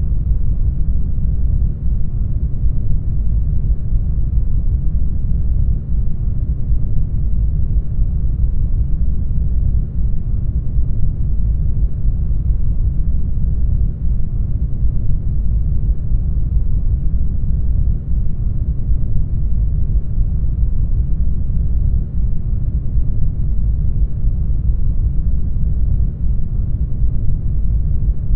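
Steady brown noise: an even, deep rushing hiss with most of its weight in the bass, dipping briefly in level about every four seconds.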